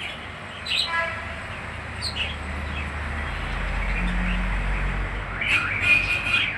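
Small birds chirping in short high calls, scattered singly early on and bunched near the end, over a low rumble that swells and fades in the middle.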